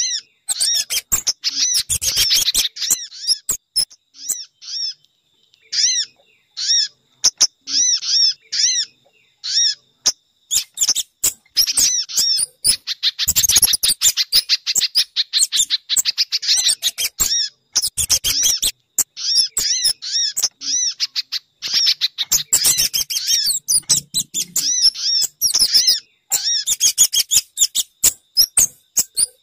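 Bird-lure recording of small songbirds' calls (sogon, spiderhunter and kemade): quick high-pitched chirps and squeaky notes in rapid overlapping runs, with brief pauses in the first half and a busier, almost unbroken stretch later on.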